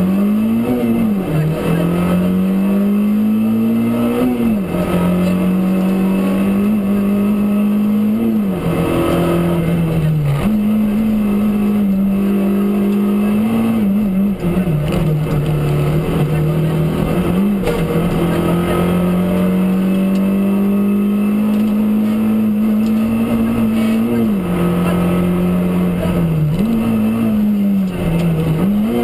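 Rally car engine running hard on a special stage, with revs climbing and then dropping sharply at gear changes about eight times, and some long stretches at nearly steady revs.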